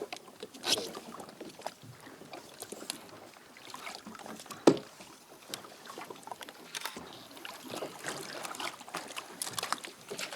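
Handling knocks and water sounds on a plastic fishing kayak, irregular and scattered, with one sharp loud knock about four and a half seconds in.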